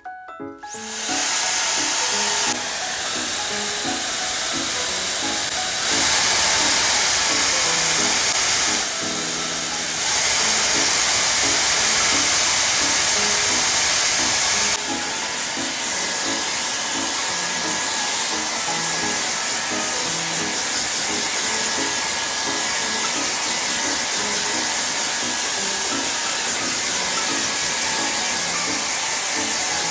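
ReFa hair dryer blowing, a steady rushing of air that starts about a second in and steps louder and softer several times, as with changes of fan setting or distance. A light tune with repeating notes plays underneath.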